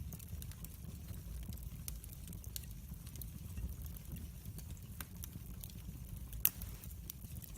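Wood fire burning in a fireplace: a low steady rumble of flames with scattered crackles and pops, one sharper crack about six and a half seconds in.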